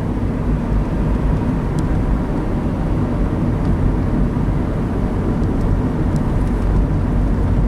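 Steady road noise of a car driving: tyre rumble and engine drone heard from inside the cabin, even and unchanging.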